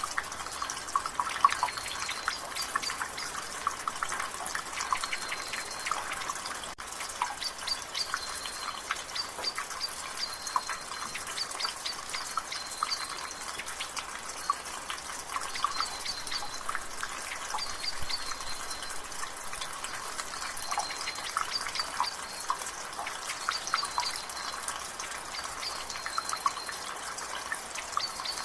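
Rainwater dripping from a gutter, many irregular drips over a soft drizzle hiss. A bird in the background repeats a short, high note every second or two.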